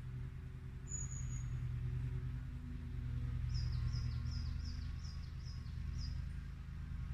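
A small songbird calling: one thin, high whistle about a second in, then a quick run of about eight high, downward-slurred notes, roughly three a second. Under it a steady low rumble.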